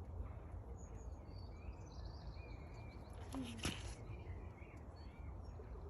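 Faint birds chirping over a steady low background rumble of outdoor noise, with a single sharp click about three and a half seconds in.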